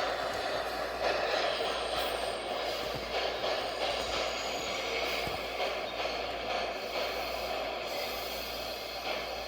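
R142-family subway train running through an underground station: a steady noise of wheels on rails, with a few faint clicks.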